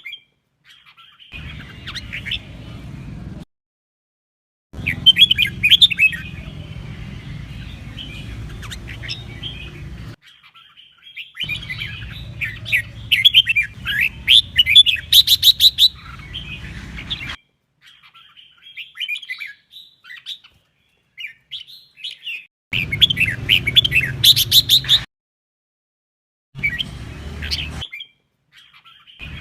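Red-whiskered bulbul singing: rapid, clear chirping phrases in stretches of a few seconds, each cut off abruptly by dead silence, with a low hum under the song.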